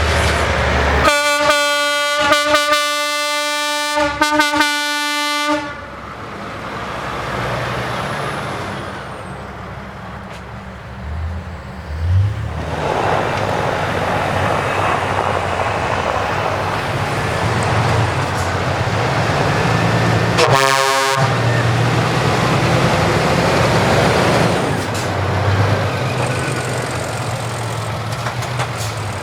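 A truck horn blown in several loud blasts for about four seconds, then heavy trucks' engines and exhausts running by, with one more short horn blast about twenty seconds in.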